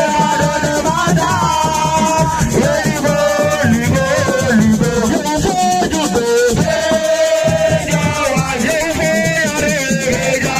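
Live Senegalese assiko music: a voice singing long held phrases over driving hand percussion with a shaken rattle.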